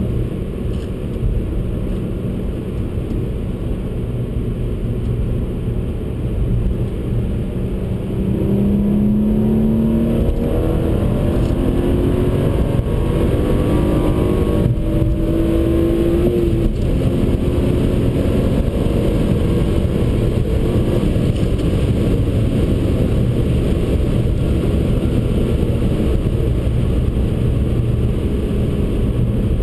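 BMW 135i's N55 turbocharged inline-six heard from inside the cabin at track speed, mixed with heavy road and tyre rumble. The engine note holds steady, then climbs in pitch under acceleration from about eight seconds in until it drops away suddenly about halfway through, leaving a steady drone.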